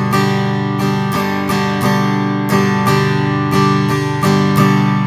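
Acoustic guitar strumming a G major chord in a steady pattern of down- and upstrokes, about three strokes a second.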